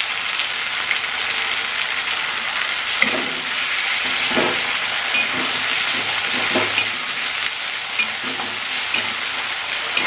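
Tomato and onion sizzling steadily in hot oil in a kadai, with a metal spatula stirring and scraping against the pan a few times.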